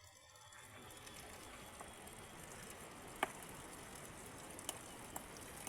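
Faint steady rain hiss with scattered sharp ticks of drops, one louder tick about three seconds in.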